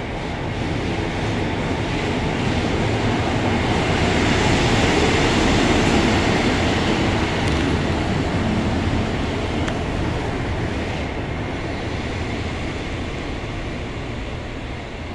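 Transport for Wales diesel multiple unit running past along the platform, its engine and wheel noise growing to a peak about five or six seconds in, then fading as it moves off.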